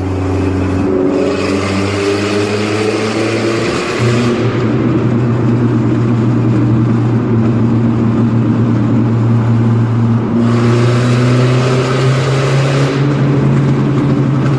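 Mitsubishi Lancer Evolution engine running with no exhaust fitted, heard loud from inside the cabin as the car accelerates. The note climbs, changes sharply about four seconds in, and changes again about ten seconds in.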